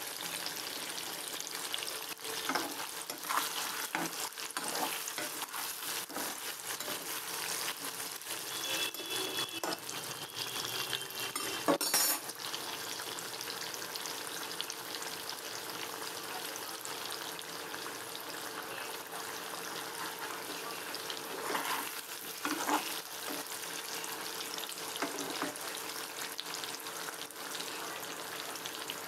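Potato chunks sizzling steadily as they fry in hot oil in a kadai. A few knocks and scrapes of a spatula against the pan break in, the loudest about twelve seconds in.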